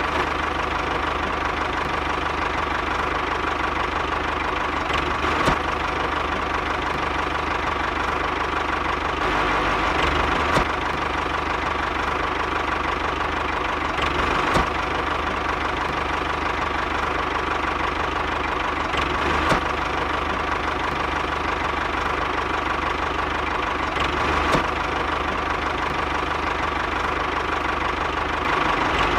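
Miniature model vehicle running steadily with an engine-like drone and a constant high hum, with a faint tick about every five seconds.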